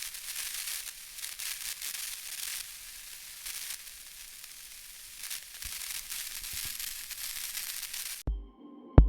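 A steady crackling hiss, high-pitched and without any tone. About eight seconds in it cuts off suddenly, and music starts with deep bass beats about every 0.7 seconds.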